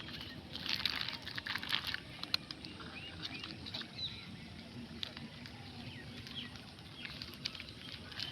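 Outdoor rural ambience: bursts of rustling and crackling, heaviest in the first two seconds, with scattered small bird chirps over a steady low background.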